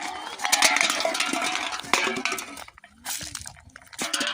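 Clinking and rustling of hard objects being handled, dense for the first few seconds, then stopping and starting in short bursts.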